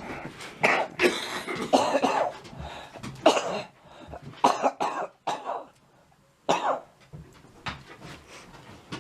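A person coughing, a series of short coughs in fits, from someone who is sick.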